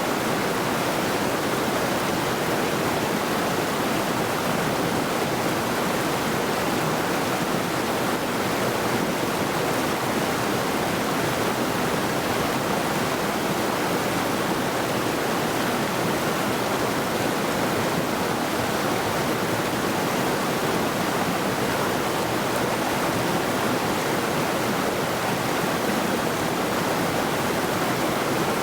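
A mountain river rushing steadily over rocks, a constant, even noise of running water.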